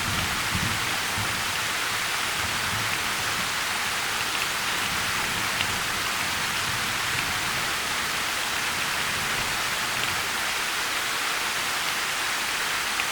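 Steady heavy rain falling on a surface, an even hiss with the odd sharper drop tick.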